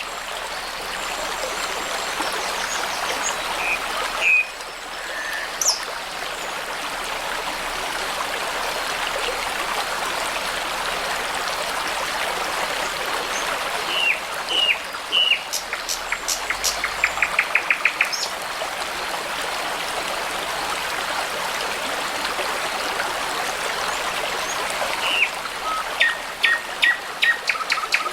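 A brook babbling steadily, with songbirds calling over it in short phrases: a couple of chirps about four seconds in, a run of quick repeated notes midway, and more chirps near the end.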